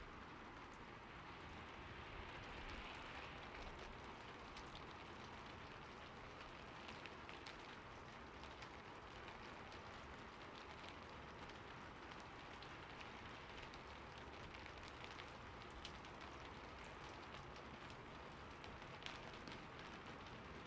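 Steady rain falling on a roof: a soft, even hiss with scattered sharp ticks of individual drops.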